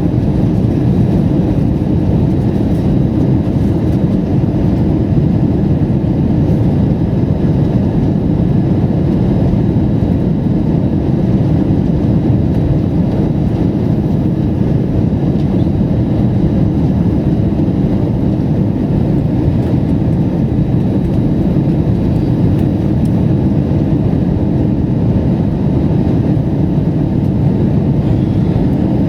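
Steady cabin noise of an Airbus A320 jet airliner in flight: an even, low rumble of engines and airflow.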